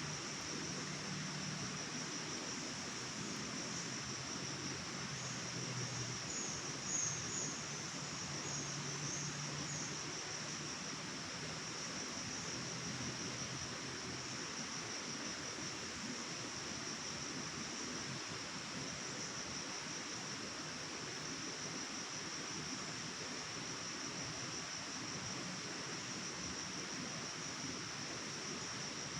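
Steady chorus of crickets or similar insects, one continuous high trill, over an even background hiss. A few brief higher chirps come in about five to ten seconds in.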